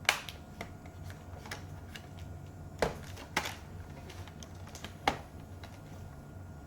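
Sharp plastic clicks and snaps as a laptop's plastic bezel is pressed back into place: a few scattered clicks, the loudest just at the start, about three seconds in and about five seconds in.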